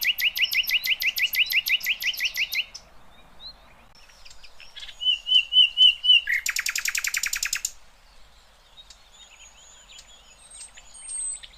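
Sikatan londo (a flycatcher) singing: a fast trill of rapidly repeated rising notes, a pause with a few short whistled notes, then a second fast trill, and thin high notes near the end.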